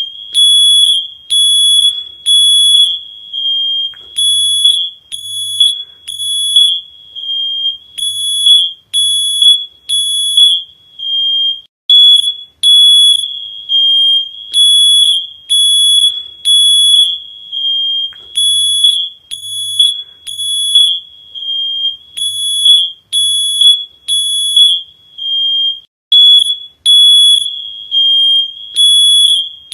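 Shrill electronic alarm beeping over and over, about two loud high-pitched beeps a second.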